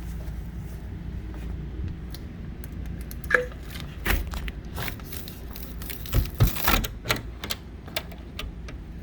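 A run of sharp clicks and clacks, loudest about four and six seconds in, with a brief squeak about three seconds in, over a steady low hum.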